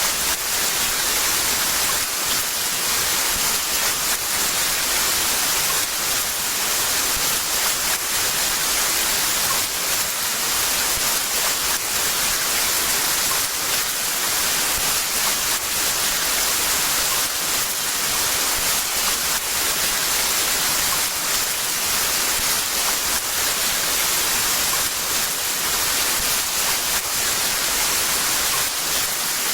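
Heavy rain falling, a dense, steady hiss with no breaks.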